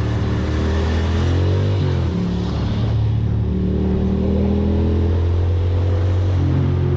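Ducati Monster's V-twin engine running under way; the revs drop about two seconds in, then hold steady.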